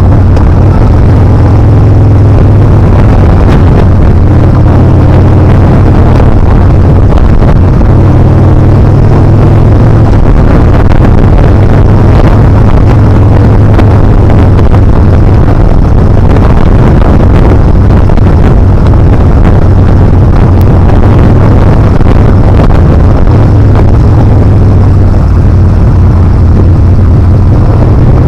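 Yamaha Bolt R-Spec's 942 cc air-cooled V-twin running at road speed, its pitch stepping up and down several times, under loud wind rush on the action camera's microphone.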